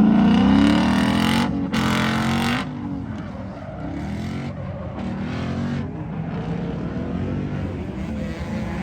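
A car engine revving hard, its pitch climbing, then dropping back to a lower, quieter run. A loud rushing noise cuts in for about a second, about one and a half seconds in.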